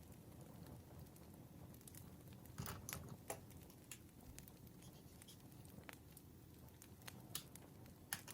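Campfire crackling faintly: a low rumble of flames with scattered sharp pops and snaps, a small cluster of them about three seconds in and another near the end.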